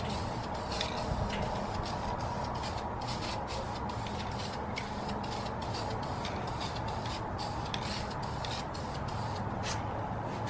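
Clear coat being sprayed onto an aluminum wheel, a hiss that comes and goes in short pulses over a steady low hum.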